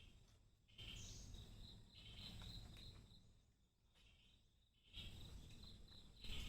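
Faint morning outdoor ambience of birds and insects chirping high and steadily, with two stretches of low rumble on the microphone, one about a second in and another near five seconds.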